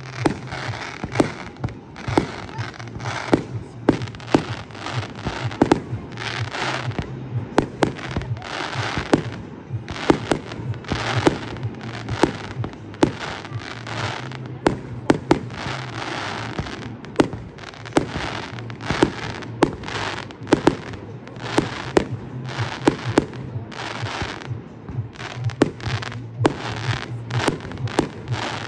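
Fireworks display: aerial shells bursting with sharp bangs, a few a second, mixed with the crackle of glittering stars.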